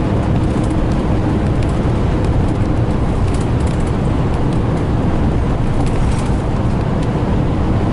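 Steady low rumbling noise, loudest in the bass, with faint scattered ticks.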